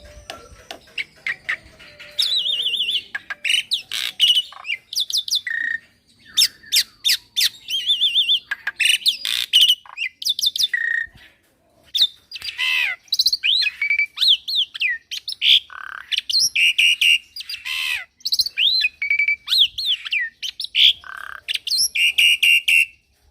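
Black-winged myna (jalak putih) singing a long, rapid, varied song of harsh squawks, rattling trills and sweeping whistled notes, packed with mimicked calls of other birds. It breaks off briefly twice.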